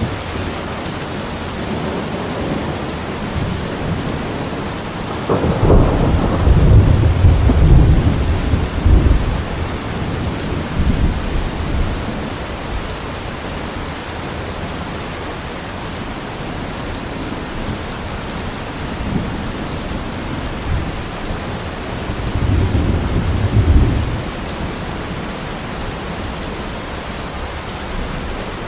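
Steady heavy rain with two rolls of thunder: a long low rumble starting about five seconds in and fading over several seconds, and a shorter one a little past the twenty-second mark.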